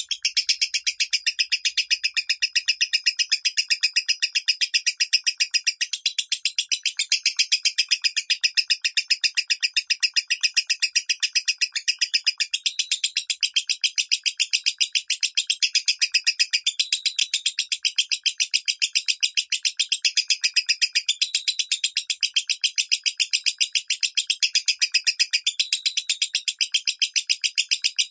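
Lovebird singing in the 'minor' style: a long, unbroken run of rapid, high-pitched chirps repeated at an even pace without pause.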